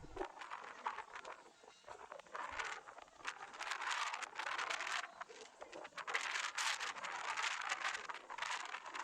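Irregular crinkling and rustling in quick clusters, busier from about two and a half seconds in.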